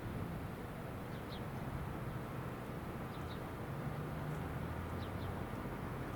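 A bird giving short double chirps about every two seconds over a steady low outdoor rumble.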